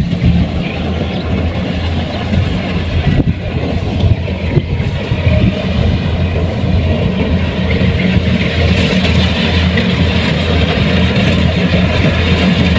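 Kubota rice combine harvester running steadily, its engine a low pulsing hum under a broad mechanical rushing noise that grows louder about eight or nine seconds in.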